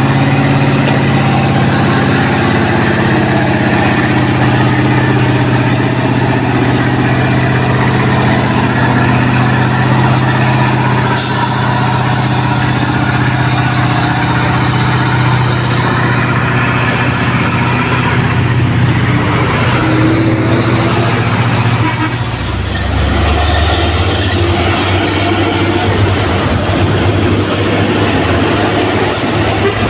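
Heavy truck diesel engine running steadily; about two-thirds of the way through its note drops to a lower, rougher rumble.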